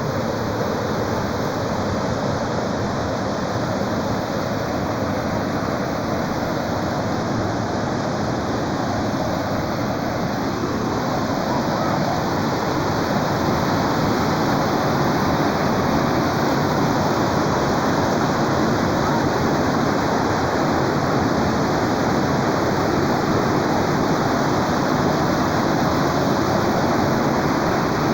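Creek water rushing steadily, a loud continuous wash of flowing water over rapids or a small fall, growing a little louder about halfway through.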